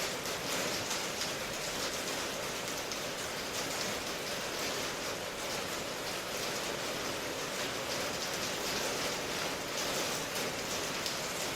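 Steady heavy rain falling, an even hiss of many drops with no let-up.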